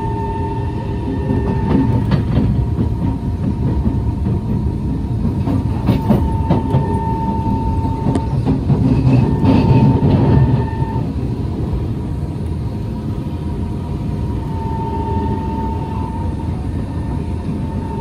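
Kawasaki C151 MRT train running between stations, heard from inside: a steady rumble of wheels on rail with scattered clicks and a steady whine that comes and goes. The noise is louder for most of the first half and drops suddenly about eleven seconds in.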